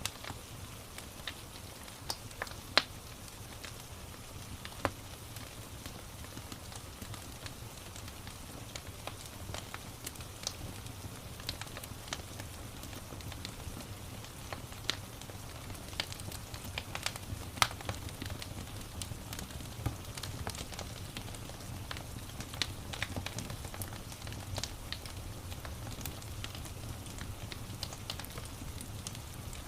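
Wood fire crackling with irregular sharp pops, a few much louder than the rest, over a steady hiss of rain.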